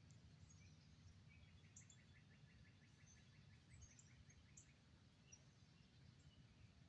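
Faint outdoor quiet with distant birdsong: a fast, even trill starting about a second in and lasting about two seconds, and scattered short high chirps over a low background rumble.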